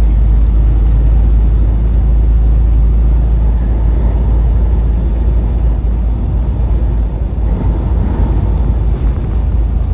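Steady low rumble of a semi truck driving at road speed, heard from inside the cab, with strong wind buffeting the truck.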